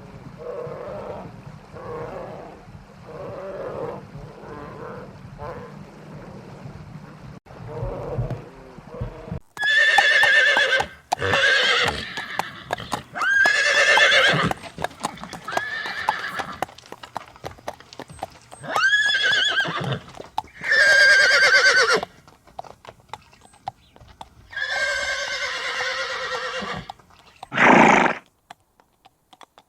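A run of soft repeated animal calls, then from about a third of the way in a series of loud, high, whinny-like animal calls, each about a second long, with sharp clicks between them.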